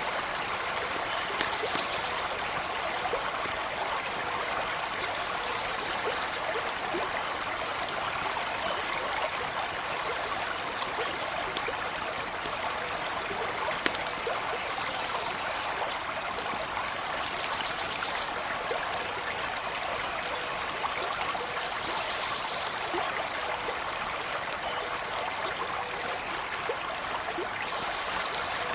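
Stream running steadily over stones, an even rushing trickle, with scattered sharp crackles from a campfire.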